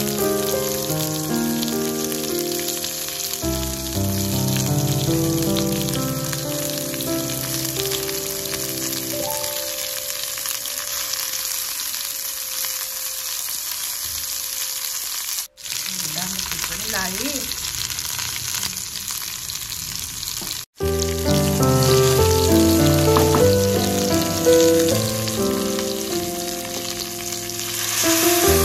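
Smoked pork pieces sizzling as they fry in oil in a nonstick pan, a steady hissing crackle, over background music. The sound cuts out briefly twice, about fifteen and twenty seconds in.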